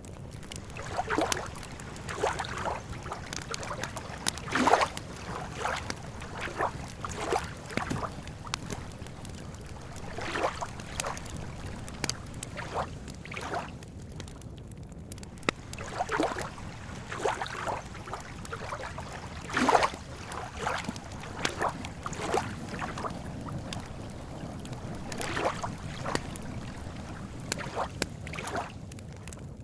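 Small waves lapping irregularly against the lakeshore in short splashes, over a steady low rumble.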